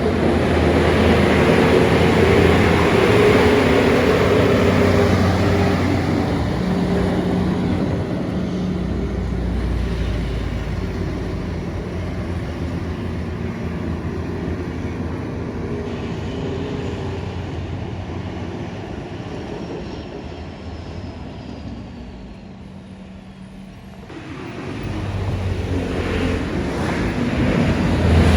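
Loaded heavy trucks passing on the road, engines running loud at first, then fading away over about twenty seconds. Another vehicle approaches and grows loud near the end.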